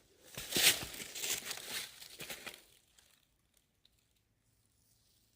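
Footsteps crunching and crackling through dry fallen leaves, several steps over the first two and a half seconds, then they stop.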